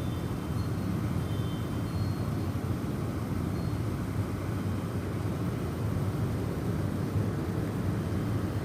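Snowstorm wind blowing as a steady low rumble, with a few faint high wind-chime tones in the first few seconds.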